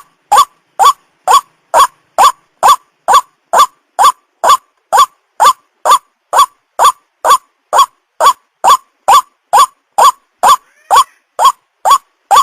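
White-breasted waterhen lure call: a single short note, rising sharply in pitch, repeated evenly about twice a second.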